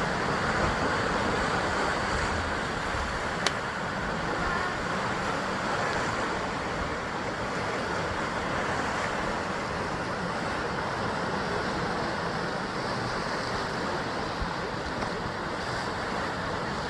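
Sea waves washing against basalt rock cliffs: a continuous steady rush of surf, with one sharp click about three and a half seconds in.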